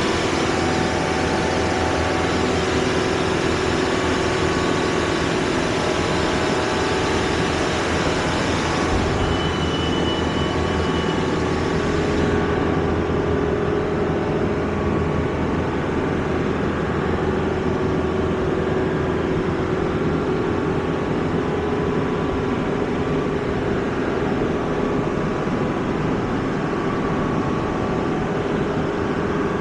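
Steady engine and road noise of a vehicle on the move, heard from inside; the high hiss drops away sharply about twelve seconds in.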